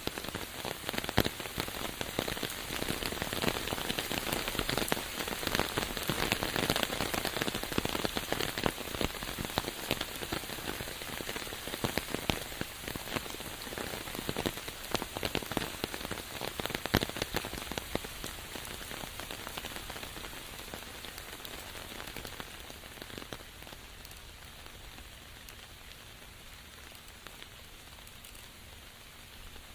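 Rain falling steadily, a dense hiss with many sharp drop hits. It gradually eases and grows quieter over the last third.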